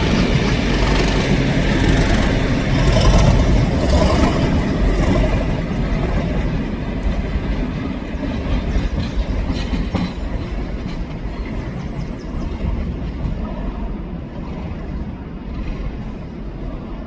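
Train made up of a Colas Rail class 37 diesel locomotive and DBSO driving trailer 9714 passing, its wheels clattering over the rail joints. The sound is loudest in the first few seconds and fades steadily as the train moves away.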